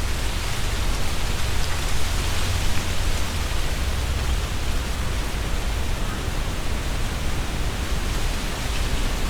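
Strong wind blowing through trees, the leaves rustling in a steady rushing hiss with a low rumble underneath.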